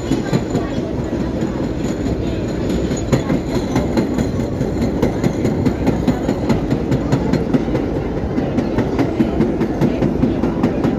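R32 subway car running at speed, with a steady rumble and rapid clicking of wheels over rail joints, heard at the open front window.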